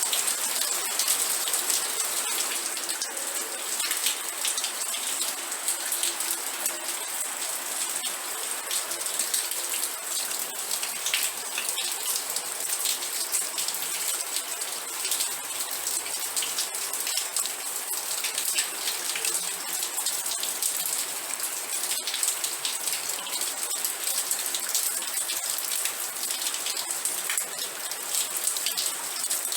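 Steady rain falling, a constant hiss with many separate drops striking close by.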